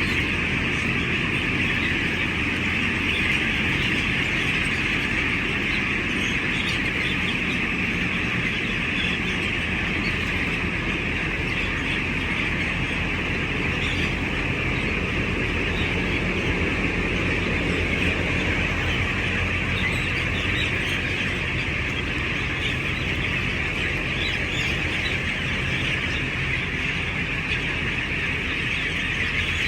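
A flock of broiler chickens calling together in a shed, a dense steady chatter with a steady low rumble underneath.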